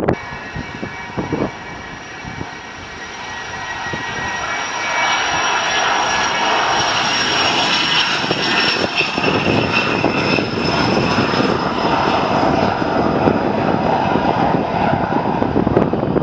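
Dassault Falcon 10 business jet departing, its two Garrett TFE731 turbofans giving a high whine that slowly falls in pitch. The jet noise grows louder over the first several seconds and then holds steady.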